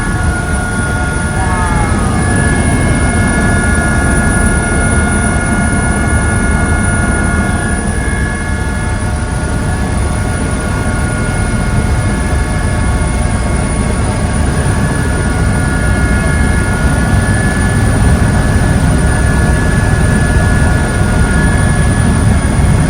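Helicopter running steadily in flight: a loud low rotor and engine drone with a steady high whine over it.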